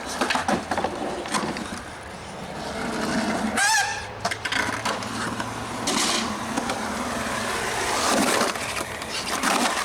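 Skateboard rolling, with several sharp clacks of the board early on and a short, wavering honk-like squeal about three and a half seconds in.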